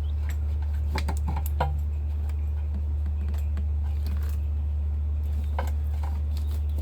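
Sparse light clicks and clatter of parts being handled during hands-on work on an engine's spark plug cables, over a steady low hum. A small cluster of clicks comes about a second in, and another near the end.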